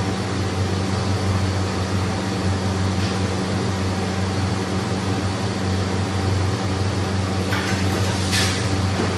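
Steady low mechanical hum with an even hiss, like a running fan or ventilation unit, with two brief swishing noises near the end.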